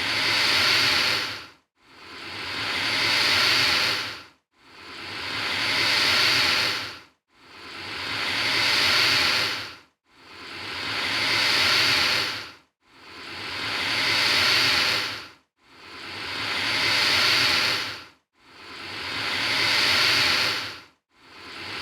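Alligator hissing: a run of long, forceful hisses, each swelling to a peak and then cutting off sharply, one just under every three seconds with a short silence between.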